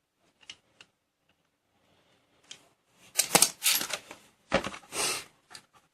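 Metal clicking and clatter of a motorcycle brake caliper and its brake pads being handled and fitted: a few light taps, then a louder run of rattling clicks from about three seconds in.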